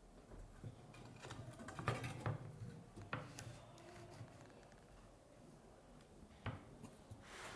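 Faint knocks and clicks of small objects being handled: a cluster about two to three seconds in, then one more near six and a half seconds.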